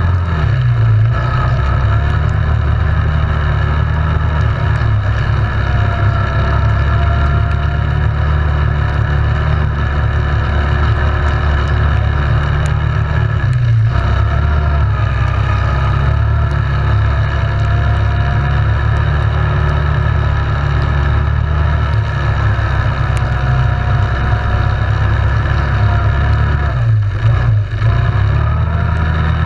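Yamaha Grizzly 700 ATV's single-cylinder engine running while riding, its pitch repeatedly rising and falling with the throttle, easing off briefly around the middle and again near the end.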